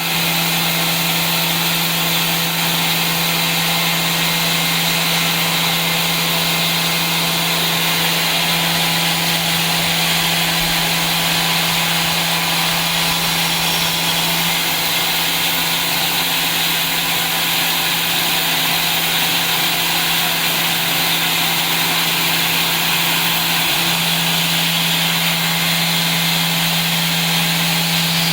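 CNC machining centre milling paper bakelite (paper-phenolic laminate): a steady low spindle hum under a continuous cutting hiss. The hum shifts slightly a few times.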